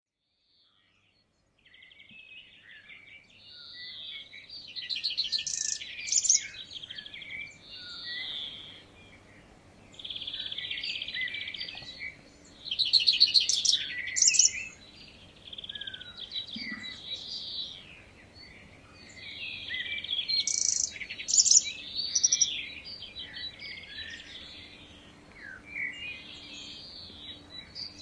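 Songbirds singing: clusters of high chirps and rapid trills that come in phrases every few seconds.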